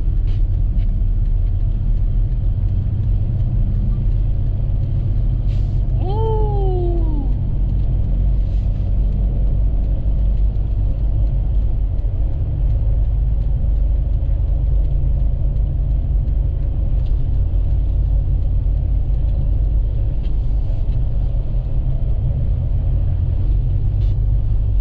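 Steady low rumble of road and engine noise inside a moving vehicle. About six seconds in, a brief falling tone cuts through it.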